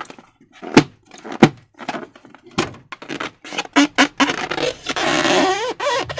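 Rubber balloons being handled: sharp taps and crackling, then near the end a sustained squeak that wavers up and down in pitch.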